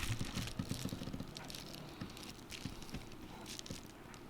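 Light, scattered small clicks and taps of hands working inside an opened iPhone 7 Plus, pressing a screen flex-cable connector back into its socket.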